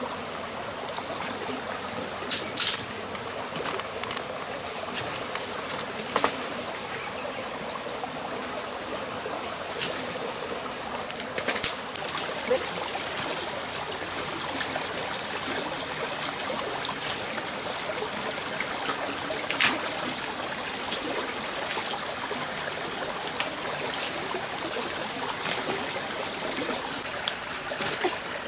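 A stream trickling and running steadily, with a few scattered sharp clicks or knocks.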